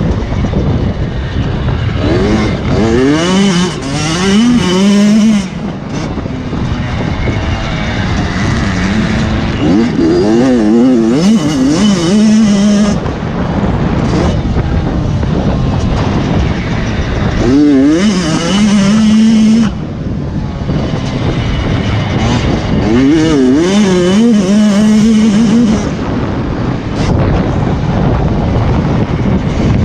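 Motocross motorcycle engines revving hard, the pitch climbing and dropping as the riders shift gears and throttle on and off, coming through in four bouts over a constant engine din.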